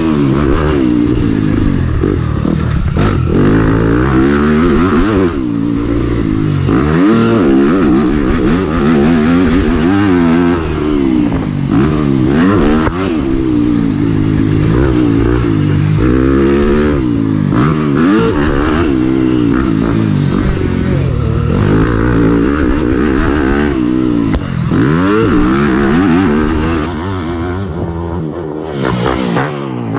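Yamaha YZ250F four-stroke motocross bike's engine revving hard and backing off again and again, its pitch climbing and falling every couple of seconds as the rider works the throttle round the track.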